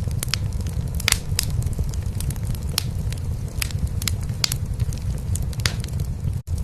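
Wood fire crackling in a fireplace, with irregular sharp pops and snaps, over a steady low rumble of a cat purring. The sound cuts out for an instant near the end.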